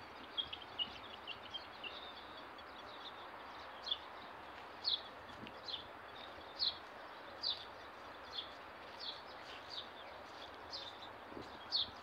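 Bird calling: a few short high chirps at the start, then a short, high, falling note repeated about once a second, over a steady background hiss of open air.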